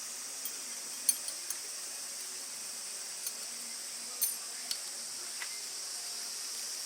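Wood campfire crackling, with sharp scattered pops, the loudest about a second in and another just after four seconds, over a steady high chorus of insects.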